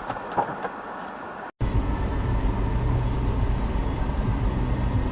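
A quiet stretch with a faint click, then, after a sudden cut about a second and a half in, the steady low rumble of a car driving: engine and road noise.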